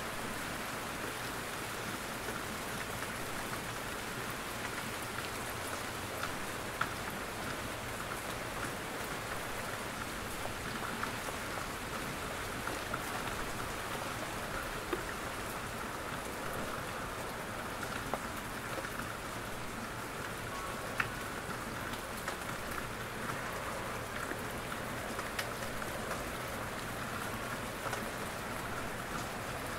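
Steady rain falling in a forest, with scattered individual drops from the trees ticking on surfaces at irregular moments.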